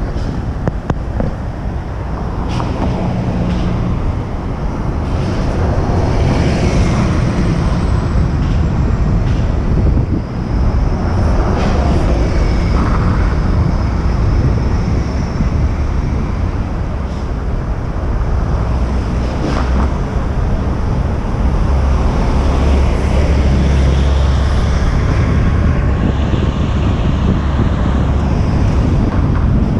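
Wind buffeting a bike-mounted action camera's microphone as the bicycle rides along, over city street traffic, with a few short knocks.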